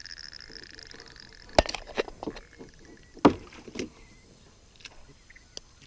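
A handful of sharp knocks and thumps against the canoe, five or so in about two seconds, the loudest a little past three seconds in. A steady high buzz fades out before the knocks begin.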